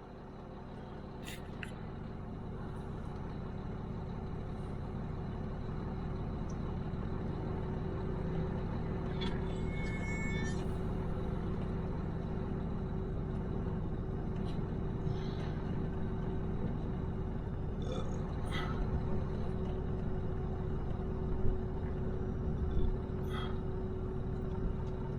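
Engine running steadily with a constant hum and low rumble, a few light clicks and knocks over it.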